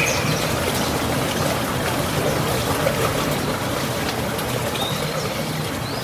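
Steady sound of running water, with a short bird chirp near the end.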